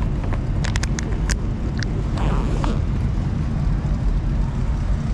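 Steady low rumble of a car engine running close by, with a few sharp clicks in the first two seconds.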